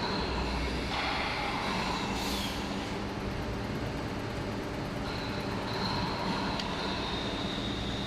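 Injection moulding machine running a 16-cavity 8.5 g mould: a steady mechanical hum with a high whine that comes and goes. A short hiss comes about two seconds in.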